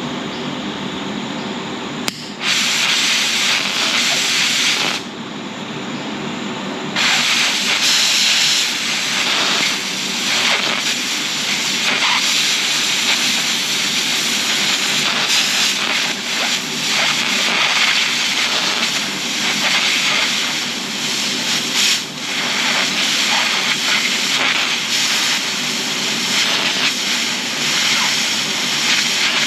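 Flux-core arc welding: the arc crackles and sizzles in long runs over the welder's steady hum. It strikes about two seconds in, breaks off briefly, then starts again and keeps going.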